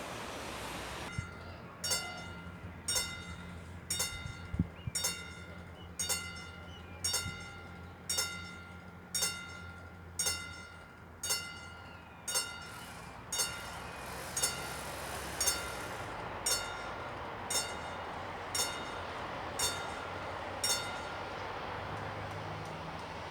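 Level crossing warning bell ringing at a steady pace of about one strike a second, some twenty strikes, then stopping near the end. Under it is a low steady hum, and a rushing noise builds in the second half.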